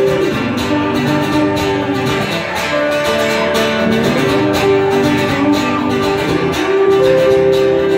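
Acoustic guitars strummed in a steady rhythm, playing an instrumental passage between sung verses of a live unplugged rock song.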